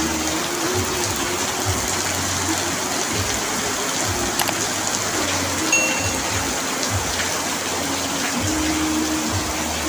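Heavy rain drumming steadily on an asbestos-cement roof: a constant dense hiss with occasional sharper drop ticks.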